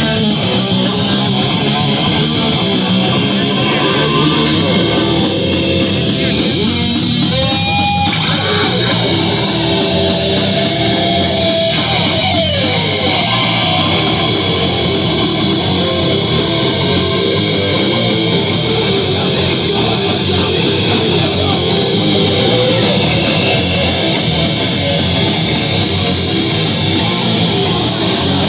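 Live heavy rock band playing loud: distorted electric guitar and bass, with a couple of sliding notes partway through.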